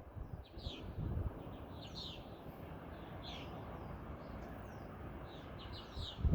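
Small birds chirping in short, repeated calls over a steady hiss of falling rain, with a brief low rumble about a second in.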